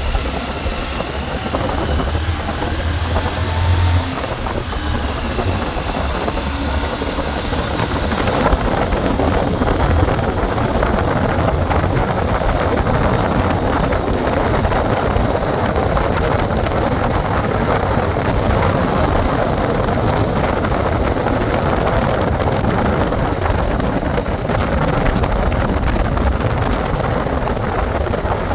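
Steady wind and road noise of a moving bike ride, over a low rumble. The noise grows louder about eight seconds in and then holds steady.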